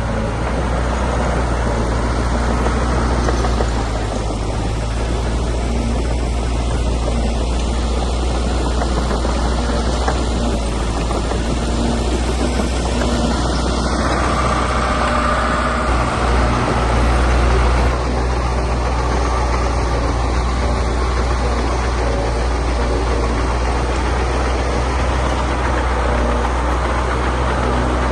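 Diesel engine of heavy earthmoving machinery running steadily, with a continuous low drone.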